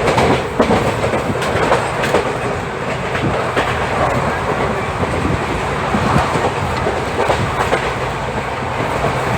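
Koyna Express passenger train running through at speed, its wheels clattering over the rail joints in a steady stream of clicks over a loud rushing rumble.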